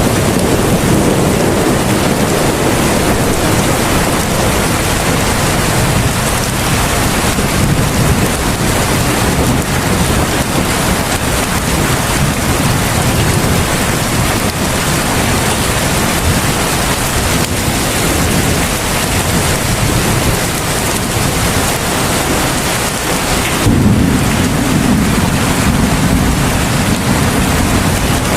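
Heavy rain falling steadily, a dense, even hiss with a low rumble underneath. The rumble swells near the start, and again from about 24 seconds in after a brief dip.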